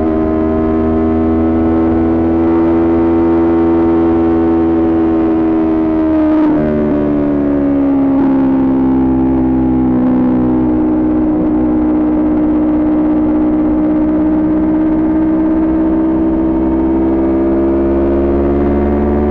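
Kawasaki Ninja 400's parallel-twin engine running at steady cruising revs through its Coffman aftermarket exhaust, over a low wind rumble. The pitch drops about six seconds in, sags slowly, then climbs gradually near the end.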